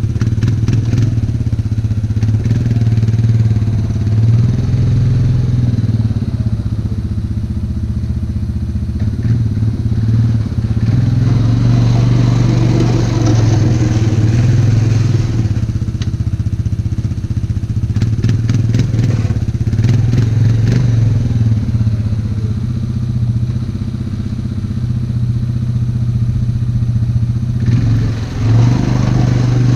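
ATV engine running steadily under load while plowing snow. A few times around the middle there are stretches of scraping and clatter from the plow blade, and the engine briefly drops near the end.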